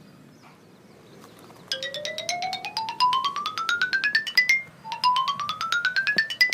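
A musical sound effect: a quick run of short pitched notes, about eight a second, climbing steadily in pitch and ending on a briefly held high note. It starts about two seconds in, and a second, shorter run climbs again near the end.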